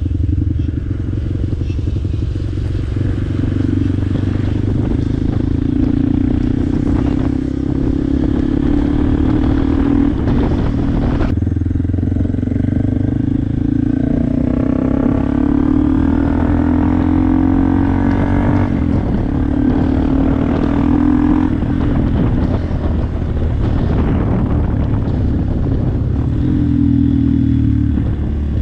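Fully modified Hero XPulse 200's single-cylinder engine running steadily while the bike is ridden, at a nearly constant pitch.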